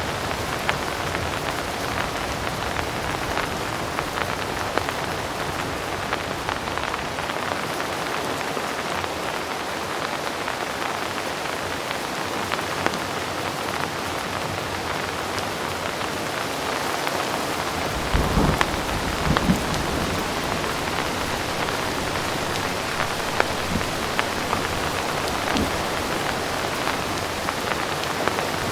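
Heavy rain falling steadily, a dense hiss with many small drop hits. About two-thirds of the way through, a low roll of distant thunder comes in under the rain.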